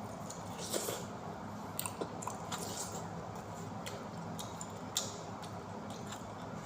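Close-up eating of pizza: chewing and biting with wet mouth smacks and clicks at irregular intervals, the sharpest about a second in and about five seconds in, over a steady low hum.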